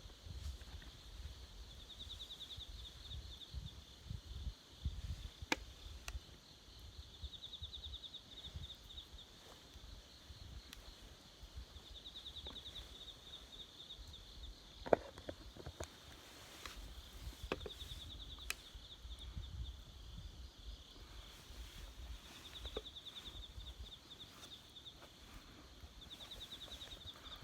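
Quiet outdoor ambience: a high, pulsing trill swells about every five seconds over a steady high drone, under a low rumble. Scattered sharp snaps, typical of a campfire crackling, fall throughout, one louder snap about halfway through.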